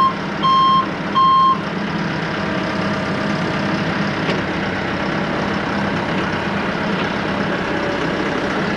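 Forklift backup alarm giving a few evenly spaced single-pitch beeps that stop about a second and a half in, over a diesel engine running steadily.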